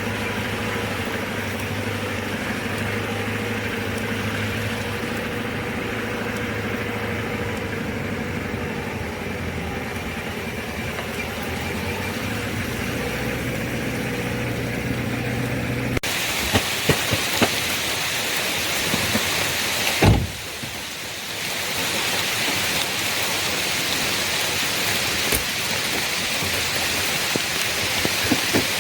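A vehicle's engine running steadily while driving, heard for about sixteen seconds. It then cuts abruptly to a steady hiss with scattered clicks and one thump.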